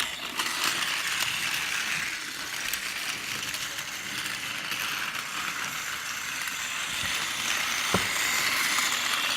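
A battery-powered motorized toy train's small motor and gears whirring steadily as it runs along a wooden track, with a single click about eight seconds in.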